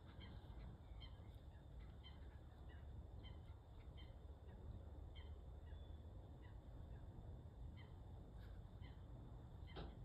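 Faint short bird calls, about one or two a second, over a low steady rumble.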